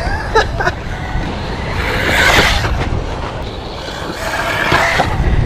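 Wind buffeting the microphone, with a brushless RC monster truck driving over sandy ground in two louder surges of motor and tyre noise, one about two seconds in and one near the end.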